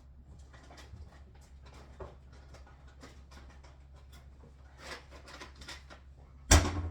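Scattered light clicks and rustles of things being handled, then one loud knock about six and a half seconds in.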